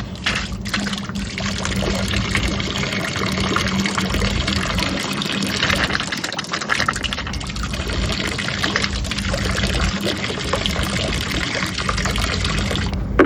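Water spraying steadily from a boat's transom shower hose, fed by the freshwater pump, with a steady low hum under the hiss; the spray cuts off suddenly near the end.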